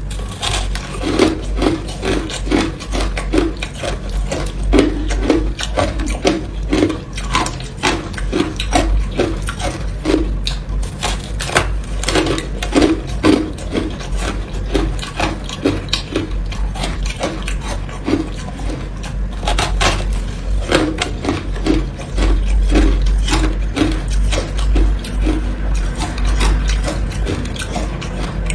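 Teeth biting and chewing hard ice: a run of crisp crunches, about two to three a second, with brief pauses between bites.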